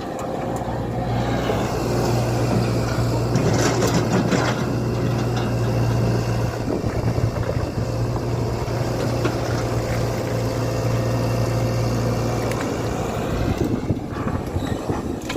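Diesel engine of a Tata Hitachi EX120 hydraulic excavator running hard under load, a steady low drone that eases off about twelve and a half seconds in.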